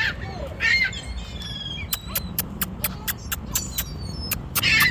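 Seagulls crying overhead: short calls near the start and just before a second in, the loudest near the end, with a quick run of sharp clicks, about five a second, in the middle.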